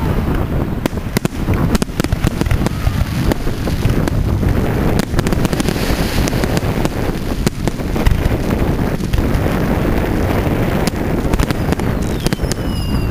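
Fireworks bursting: many sharp cracks and pops in quick succession over heavy wind rumble on the microphone. Near the end, whistling fireworks with a falling pitch.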